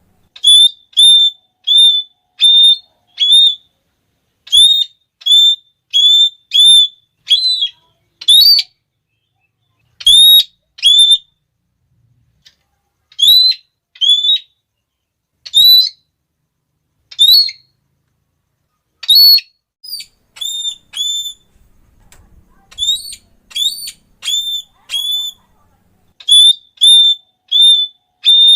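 Red-cheeked parrot (Geoffroyus geoffroyi) giving its shrill, repeated "klee" call. It comes as short, high, even notes, about two a second, in runs broken by a few brief pauses.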